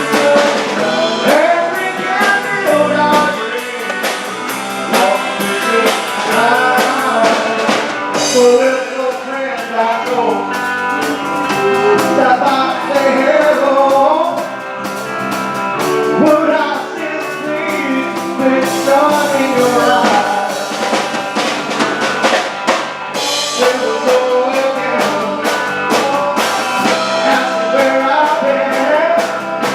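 Live band playing a rock-and-roll song, with lead singing over a drum kit.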